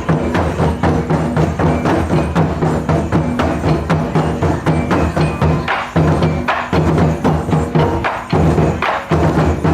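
Taiko drum ensemble playing a fast, driving rhythm: deep drumhead strikes mixed with sharp wooden clicks from sticks on the drum rims.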